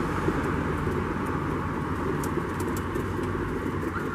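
Pigeons cooing among a flock over a steady rumbling background noise, with a few faint ticks in the middle.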